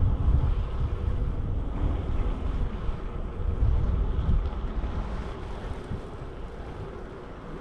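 Wind buffeting the microphone of a camera riding along on a moving bicycle: a low, gusty rumble that eases off in the second half.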